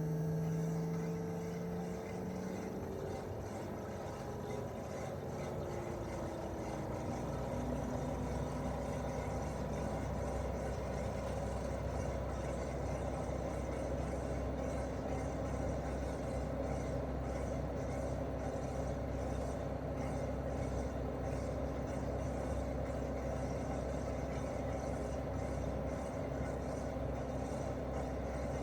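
Daikin R28RMV mini-split outdoor unit running in heating mode: the hum of its inverter-driven twin swing compressor drops in pitch over the first few seconds as the compressor slows, then holds a steady lower tone. Throughout there is an even rush of fan airflow and a low hum that grows a little stronger about six seconds in.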